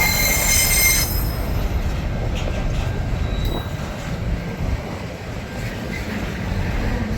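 Long freight train's wagons rolling past at low speed with a steady rumble. A brief high-pitched wheel squeal comes in the first second.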